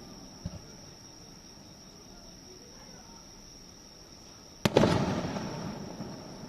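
Fireworks: a faint thump about half a second in, then a single loud shell burst near the end that rumbles and echoes away over a second or so.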